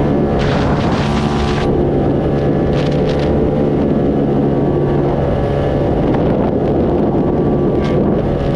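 Motorcycle engine running at steady revs while riding, with wind rushing over the microphone in brief gusts.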